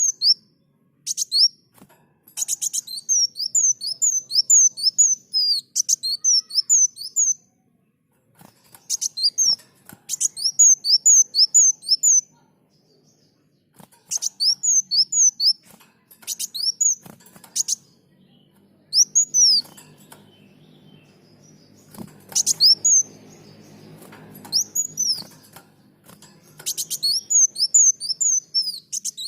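Brown-throated sunbird (kolibri muncang) singing: runs of quick, high, down-slurred notes, repeated in phrases a few seconds long with short gaps between them.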